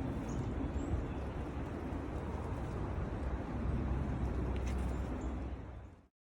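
Outdoor ambience of low rumble from wind or distant traffic, with a few faint, short high-pitched bird chirps near the start. The sound cuts off suddenly about six seconds in.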